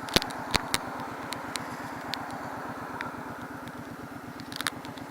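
Motorcycle engine idling steadily, its low even pulsing unbroken throughout, with a few sharp ticks on top.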